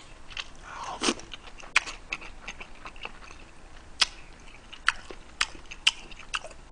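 Close-miked chewing of a mouthful of red stir-fried food: short, wet mouth clicks and smacks at irregular intervals, the sharpest about a second in and about four seconds in.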